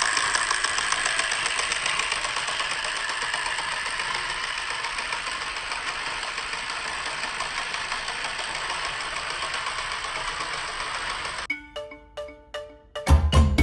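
Battery-powered toy train's motor and plastic gearbox running with a steady whir and rapid fine ticking. It cuts off suddenly near the end, followed by a few short pitched plinks and then music starting.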